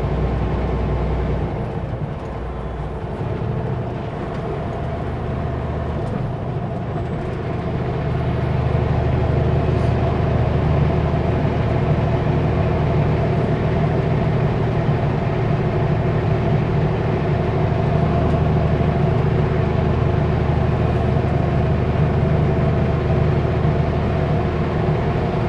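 Kenworth W900L semi-truck's diesel engine running steadily on the highway with road noise; it gets louder about eight seconds in and holds there.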